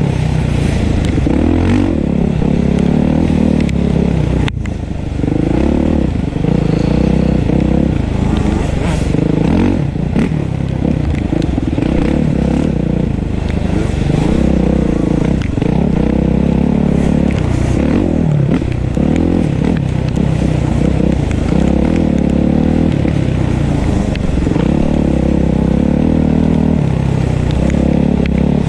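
Dirt bike engine revving up and falling off again and again, every couple of seconds, as it is ridden around a motocross track.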